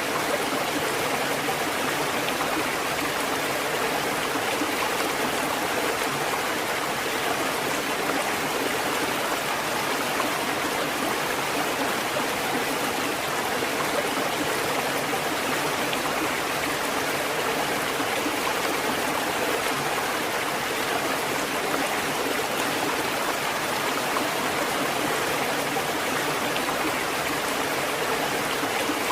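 Water running and splashing in a steady, unbroken flow.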